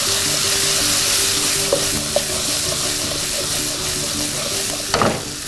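Halved baby potatoes and spices sizzling in hot oil in a nonstick kadhai as they are stirred and tossed, a steady hiss with a few light clicks. A brief louder sound comes near the end.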